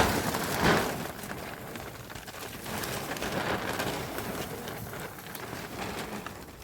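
A plastic sheet rustling and crackling as it is pulled and handled, a dense patter of small crinkles.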